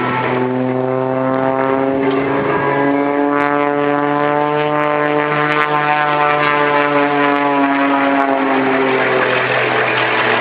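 Propeller stunt plane's engine droning steadily, its note slowly rising in pitch through the first half and falling away through the second.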